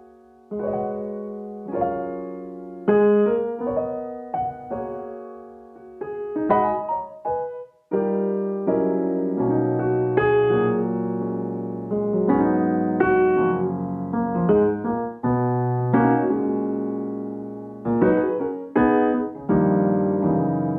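Background music: a piano playing chords, each note ringing and fading, with lower bass notes joining about halfway through.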